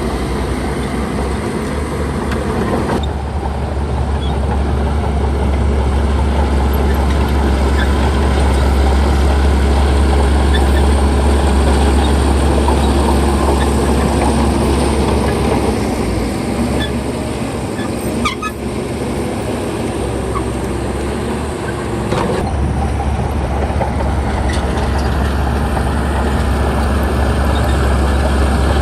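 Heavy diesel engine of earthmoving machinery running steadily with a deep hum, with a short sharp knock about eighteen seconds in.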